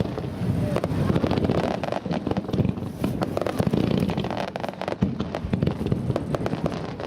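Fireworks going off, a dense run of crackling pops over a continuous low rumble.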